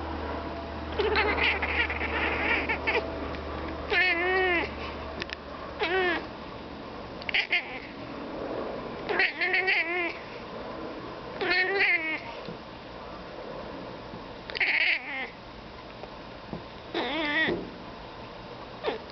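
Turkish Angora cat meowing at birds: a series of about nine short calls, each with a wavering, arching pitch, spaced a second or two apart.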